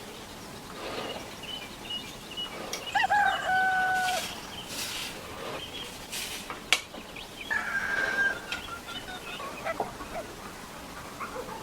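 A rooster crowing twice, each crow a held call of about a second, the second one higher. Brief hissing noises and a single sharp click come between the two crows.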